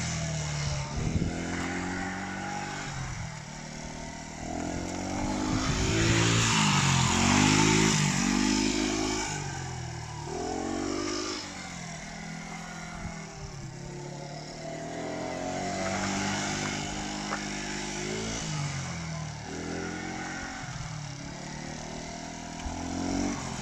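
GY6 four-stroke, fuel-injected scooter engine driving a homemade three-wheeled buggy, its revs rising and dropping back over and over as it is driven. It is loudest about a third of the way through.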